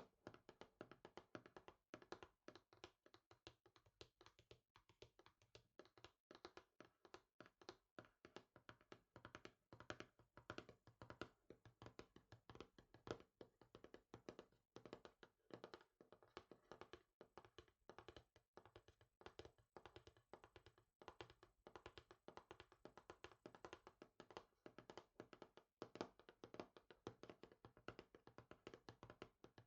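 Quiet, rapid fingertip and fingernail tapping on a small hard surface, many taps a second, kept up with only brief pauses.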